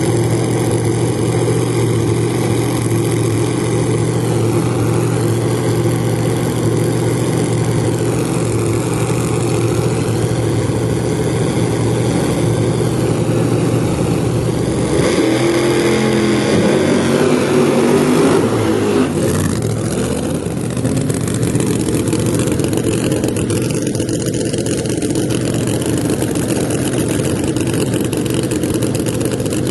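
Drag car engines running loudly, holding a steady low tone for about the first half, then shifting in pitch about halfway through as an engine revs, with engine noise continuing afterwards.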